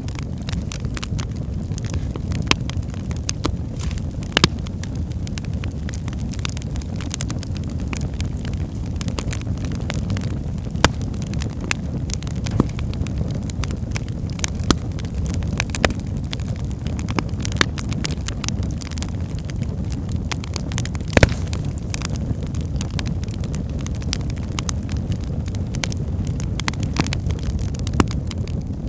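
Wood fire burning in a fireplace: a steady low rumble of flames with frequent crackles from the logs and a few louder pops.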